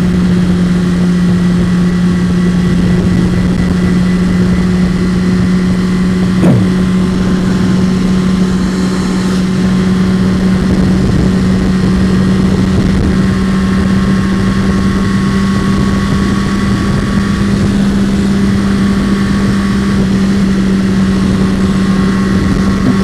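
Honda CBR600RR's inline-four engine running at a steady cruising speed, its pitch holding level, with wind rushing over the microphone. There is one brief thump about six and a half seconds in.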